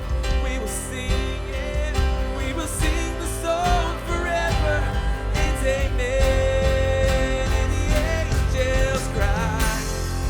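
Live worship band playing a passage without lyrics, with drums, bass, piano, synth and guitar together and a melody line that wavers and is held for a couple of seconds in the middle.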